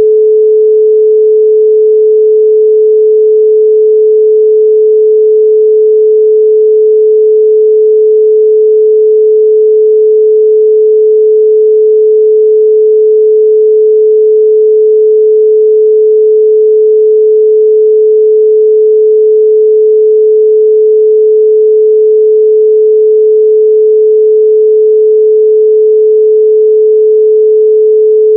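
A steady, loud pure sine tone at 432 Hz, one unbroken pitch with no other sound.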